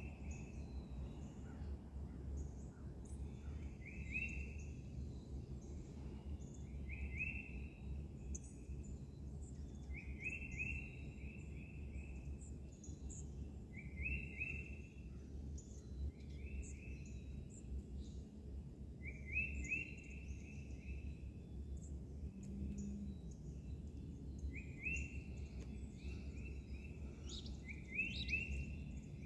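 A songbird repeats a short phrase of quick notes, each about a second long, roughly every three seconds, with fainter chirps of other birds above it. Under the birdsong runs a steady low rumble of outdoor background noise.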